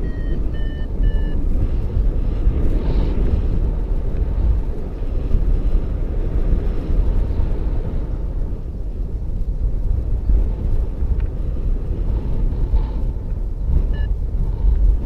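Wind rushing over the microphone in paragliding flight, a steady low rumble, with three short electronic beeps at the start and one more near the end.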